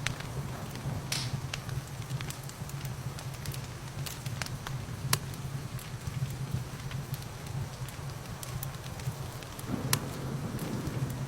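Wood fire crackling in a fireplace: scattered sharp pops and snaps over a steady low rumble and soft hiss. The hiss grows fuller near the end as rain comes up in the mix.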